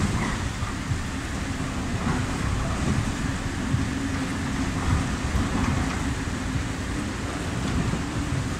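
Container freight train hauled by a class 253 TRAXX electric locomotive passing: a steady rumble with a faint held hum through most of it.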